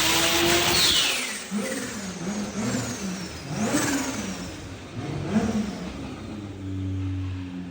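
Turbocharged Toyota 2JZ VVTi inline-six at the end of a high-rpm pull: the throttle closes about a second in and a high whine falls away as the turbo spools down. Then about four short throttle blips, each with a faint turbo whistle, before the engine settles to a steady idle near the end.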